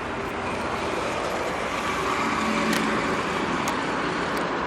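Steady road traffic noise, growing slightly louder with a low hum around the middle.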